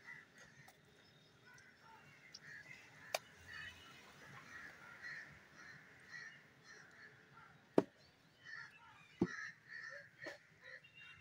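Scattered short bird calls in the background, with a few sharp knocks, the loudest two about eight and nine seconds in.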